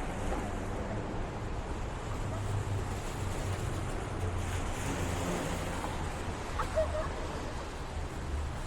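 Wet city street ambience: a steady hiss of tyres on rain-soaked pavement over a low rumble of passing traffic.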